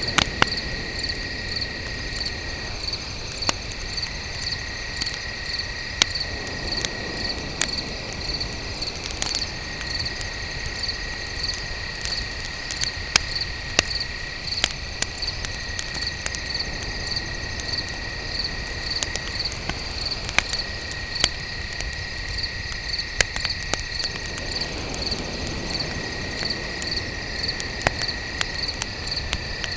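Crickets chirping in a steady, regular pulse, with a second insect trilling on one high note in long phrases broken by short pauses. Under them a wood fire crackles with frequent sharp pops.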